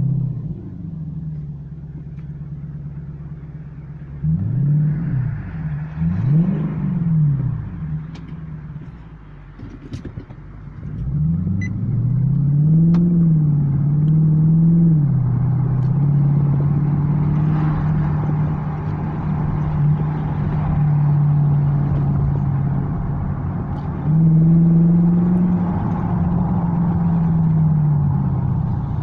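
Infiniti FX50's V8 running through a muffler-deleted stainless exhaust. It idles at first and takes two short throttle blips about four and six seconds in. From about eleven seconds on it is revved up and held at a raised speed, stepping up again near twenty-four seconds before easing back.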